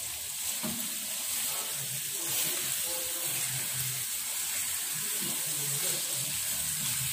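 Sambal tempe and salted fish sizzling in a frying pan as it is stirred with a silicone spatula: a steady hiss.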